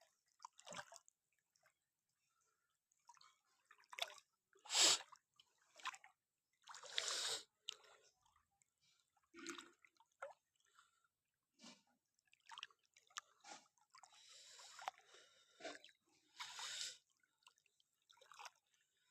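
Water splashing and sloshing in short separate bursts with quiet gaps between, the loudest about five and seven seconds in.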